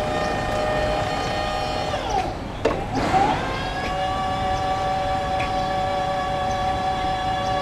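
BT RRE-2 electric reach truck's motor whining at a steady pitch. About two seconds in it winds down, there is a click, and it spins back up to a steady whine.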